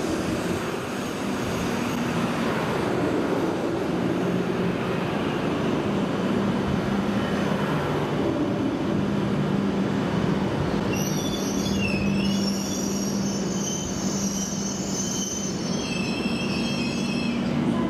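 E7 series Shinkansen train moving slowly along the platform with a steady electric hum. From about eleven seconds in, a high-pitched brake and wheel squeal joins it as the train slows, and the squeal dies away just before the end.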